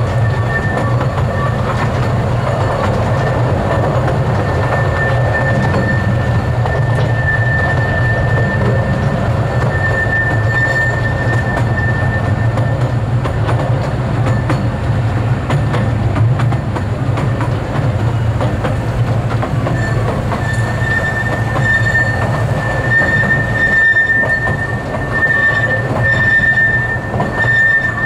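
Miniature railway train running, heard from an open carriage: a steady low rumble of wheels on track with light clicking, and a high thin wheel squeal that comes and goes, strongest near the middle and toward the end as the train rounds a curve.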